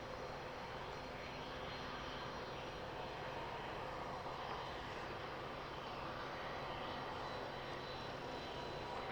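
Cessna 560 Citation V business jet's twin Pratt & Whitney Canada JT15D turbofans running steadily at a moderate distance, a constant rushing noise with a faint high whine.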